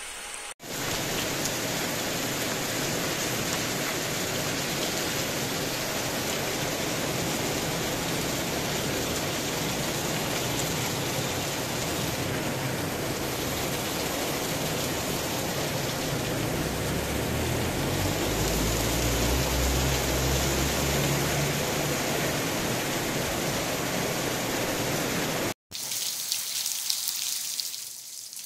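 Heavy rain pouring steadily, with a low rumble rising for a few seconds past the middle. Near the end a cut brings quieter, lighter rain.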